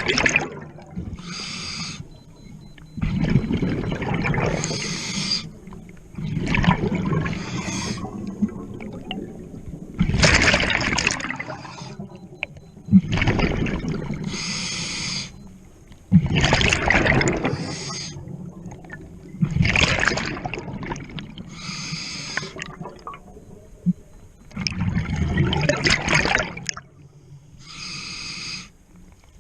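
Scuba regulator breathing heard underwater: a short hissing inhale followed by a longer burst of bubbling exhaust bubbles, repeating steadily about every three to four seconds.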